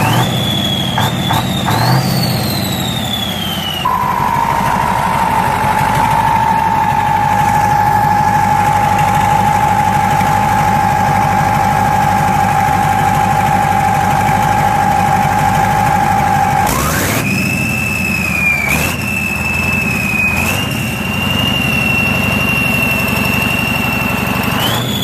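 A large engine running with a steady low rhythmic pulse under a loud high-pitched whine. The whine climbs and then falls in the first few seconds, drops to a lower steady pitch that sags slowly, and about two-thirds of the way through jumps back up to a higher pitch and holds there.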